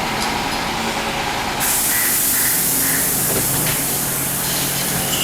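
Car engine running on a chassis dynamometer during a dyno run, under a loud, steady rushing hiss that steps up about one and a half seconds in.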